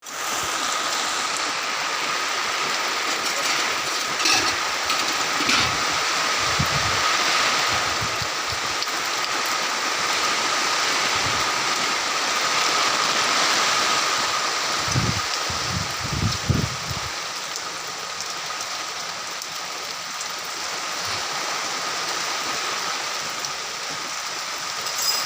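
Steady hiss of water, with a faint steady high tone underneath and a few low thumps about a third of the way in and again past the middle.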